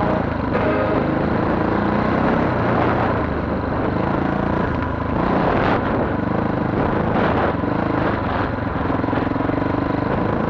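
Chinese DF250RTE 250 cc dirt bike engine running as the bike is ridden, its pitch rising and falling with the throttle, over a steady rush of wind and road noise.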